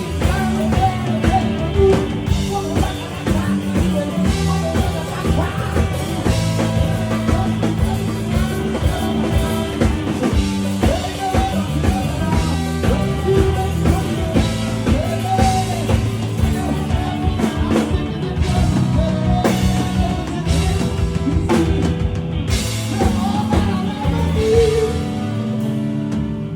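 Live band playing an instrumental break in a rock style, with a drum kit keeping a steady beat under low bass notes and melodic lines.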